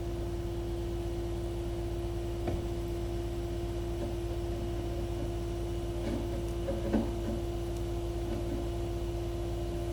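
Truck crane's engine running steadily, a constant hum with a low rumble, with a couple of faint knocks.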